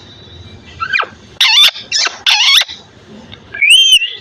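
Pet parrot calling: a quick falling note, two short harsh calls, then an arched whistle near the end.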